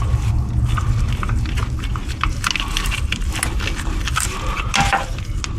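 Hand tools working in an engine bay: irregular clicks and metallic clinks, with a low rumble underneath.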